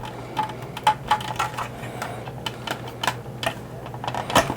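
Irregular light clicks and taps of hard plastic toy-jet parts being handled and worked loose with a small screwdriver, over a low steady hum.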